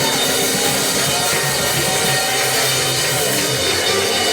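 Church band playing praise music with drums, a full, steady sound with a few held notes.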